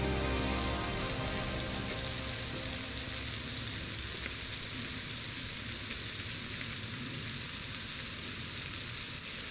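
Steady hiss of running or falling water, with background music fading out over the first few seconds.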